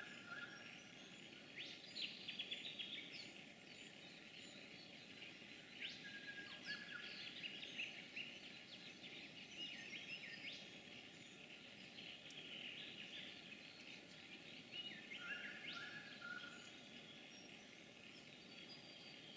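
Faint bush birdsong: many small birds chirping and trilling, with a few lower notes in between, over a steady low hiss.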